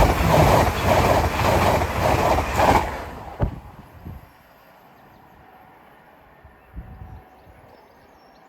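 TransPennine Express passenger train passing at speed, its wheels clattering over rail joints in a quick, even rhythm. About three seconds in the noise dies away quickly, leaving quiet outdoor background with faint bird chirps near the end.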